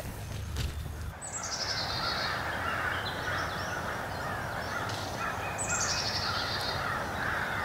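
Birds calling in the woods: a high, fast trill falling in pitch, heard twice about four seconds apart, over steady busy bird chatter.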